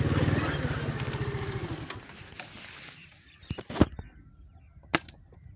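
A small engine running with a steady pulse, fading away over the first two or three seconds. Then comes a quick cluster of sharp clicks, the loudest about four seconds in, and one more sharp click about a second later.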